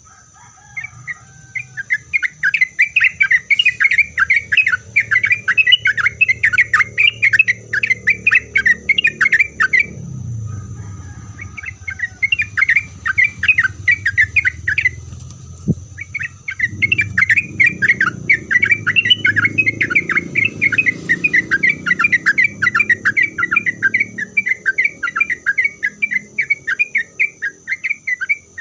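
Trucukan (yellow-vented bulbul) singing a fast, chattering song of rapid repeated notes in three long runs, with short pauses about ten and fifteen seconds in. A steady thin high whine runs underneath.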